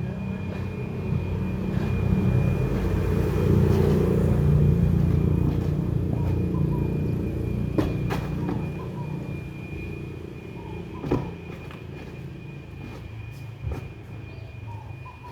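Low rumble that builds to its loudest a few seconds in and then slowly fades, under a steady high whine, with a few sharp clicks in the second half.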